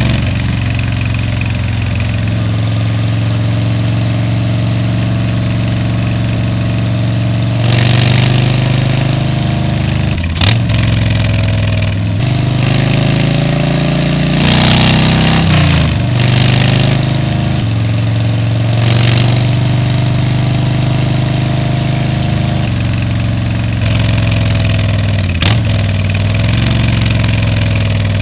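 Motorcycle engine running while riding, holding a steady note for long stretches and rising and falling several times as the throttle is opened and closed. A sharp click comes about ten seconds in and again near the end.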